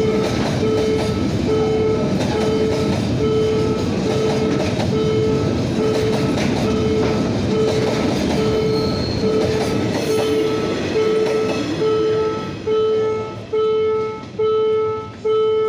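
Freight train of container wagons rolling past close by, with a continuous rumble and clatter of wheels on rail that dies away after about 12 seconds. Through it, the level-crossing warning signal sounds a pitched electronic tone a little more than once a second, and it is heard alone once the train has gone.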